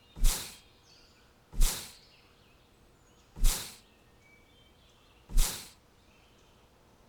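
A loud whoosh repeats four times, each one short and fading out, over a steady background with faint bird chirps in between.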